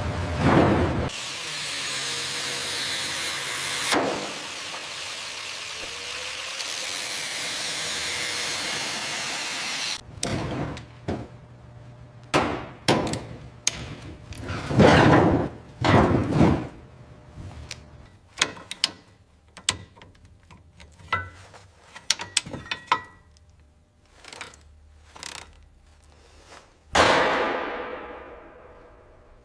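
Tool work: a steady hissing noise for several seconds, then a run of sharp knocks, clicks and clanks, with a swish that fades out near the end.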